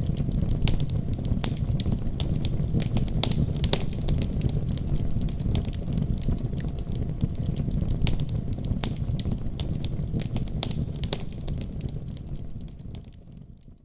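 Wood fire burning in a fireplace: a steady low rumble of flames with frequent sharp crackles and pops. It fades out in the last second or two.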